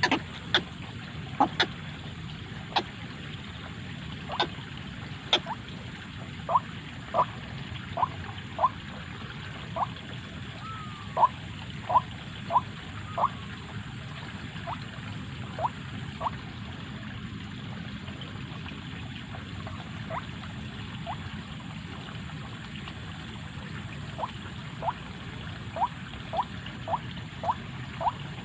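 White-breasted waterhen (ruak-ruak) calling: short, sharp notes repeated in series about one to two a second, with a pause in the middle, over a steady low background rumble.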